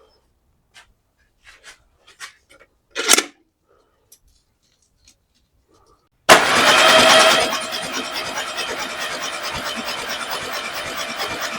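Starter motor cranking a VW GTI four-cylinder engine, starting suddenly about six seconds in and spinning it over steadily with a fast even beat, without it firing. It turns over with no clunks or bangs, a sign that the freshly fitted cam belt timing is right. Before the cranking there are a few light clicks and one louder knock.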